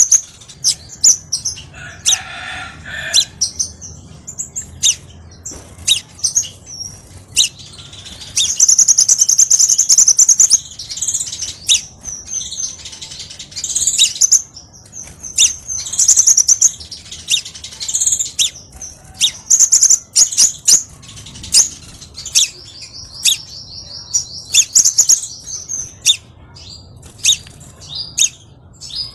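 Crimson sunbird singing: a fast string of sharp, high chirps with rapid trills, used as lure and training song for the species.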